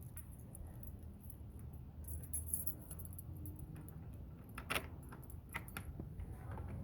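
Faint, scattered clicks and light metallic jingling as small objects are handled, with a low steady rumble underneath.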